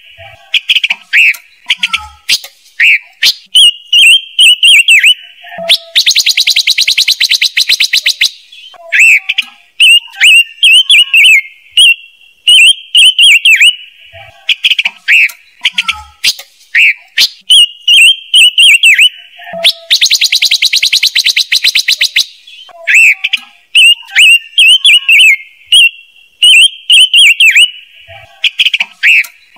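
Lure recording of the songbird known in Vietnam as chim ngũ sắc, played loud for a bird-trap speaker: repeated short chirping phrases, broken twice by a long rapid rattling trill about fourteen seconds apart.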